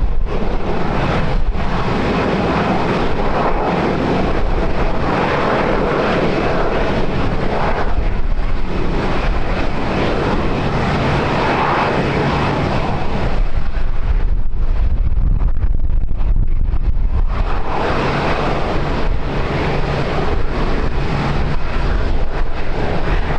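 Airliner's engines rumbling as it passes the airfield, with wind buffeting the microphone. The engine sound thins out briefly about two-thirds of the way in, then swells again.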